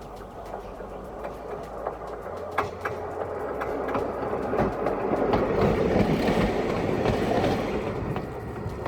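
Electric interurban car 797 rolling along the track, its wheels clicking over the rail joints; the rumble builds to its loudest about six seconds in as it passes, then eases off.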